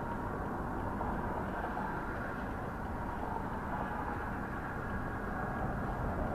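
Steady vehicle and road noise as picked up by a dashcam: an even low rumble with no distinct events.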